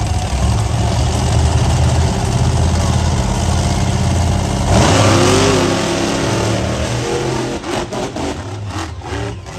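Monster truck engine running steadily, then about five seconds in a sudden loud burst of revving with rising pitch that eases off again.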